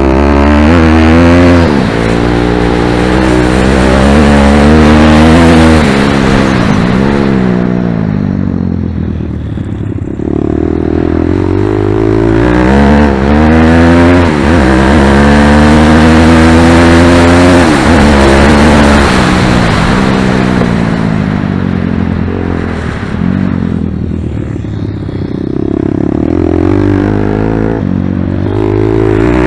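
Pit bike engine revving hard as it laps. Its pitch climbs in steps and then drops away, over and over, and it eases off twice to a quieter, lower running.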